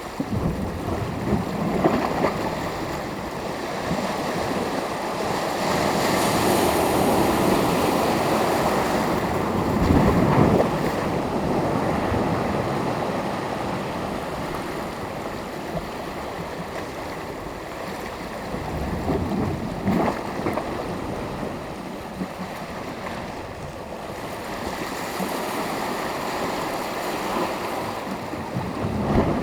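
Sea surf washing onto the shore, waves breaking and receding in slow swells, with the loudest wash about ten seconds in. Some wind noise on the microphone.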